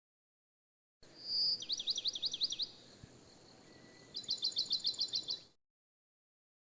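A songbird singing: a short whistled note leading into a run of quick up-and-down sweeping notes, then after a pause a faster trill of about ten notes. The recording cuts in and out abruptly.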